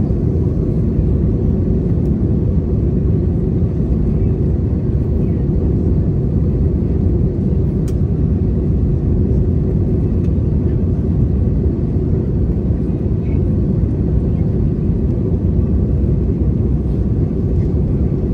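Steady low rumble of airflow and engine noise inside the cabin of an Airbus A320 in flight.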